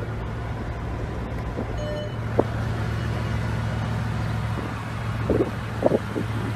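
Car engine idling with a steady low hum, heard from inside the car, with a short electronic beep about two seconds in and a sharp click a moment later.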